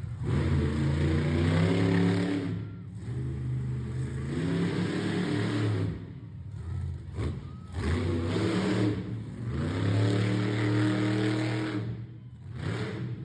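T-Rex monster truck's supercharged, fuel-injected engine revving hard during its qualifying run: about four long full-throttle bursts, each climbing in pitch and then dropping off, with short throttle blips between them.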